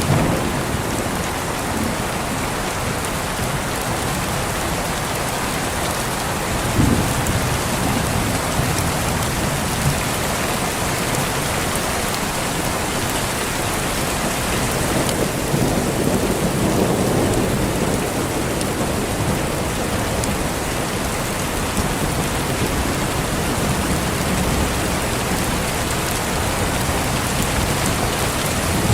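Steady heavy rain with thunder: a sharp clap about a quarter of the way in, and a low rolling rumble around the middle.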